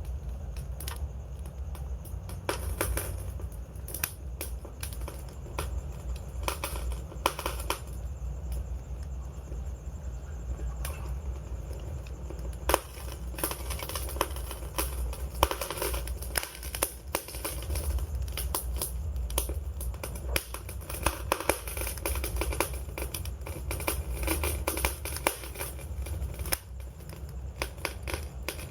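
Wood fire burning, with steady irregular crackles and pops over a low rumble; a sharper pop stands out about halfway through.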